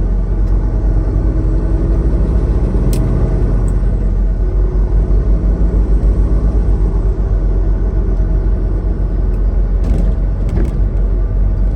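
Semi truck's diesel engine and road noise while driving: a steady low drone, with a few brief clicks about three seconds in and again near the end.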